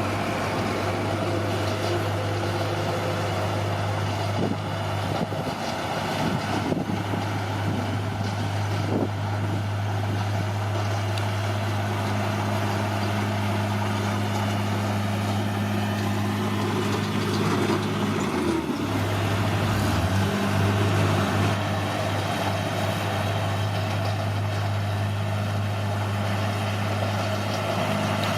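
Bulldozer's diesel engine running at a steady note. About two-thirds of the way through the note dips briefly, then comes back.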